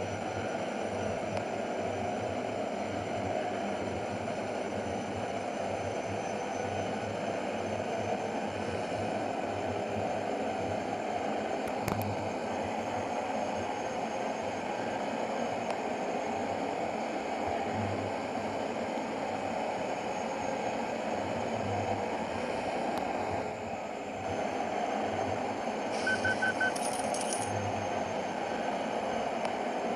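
Truck running on the road: steady engine and road noise with rattling, and a short high beeping near the end.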